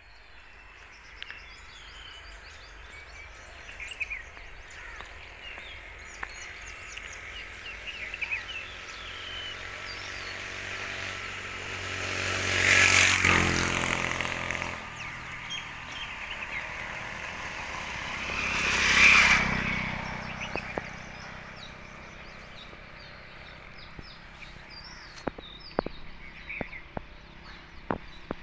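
Birds chirping over a steady outdoor background, while two motor vehicles pass one after the other, about halfway through and again some six seconds later. The engine pitch of the first falls as it goes by.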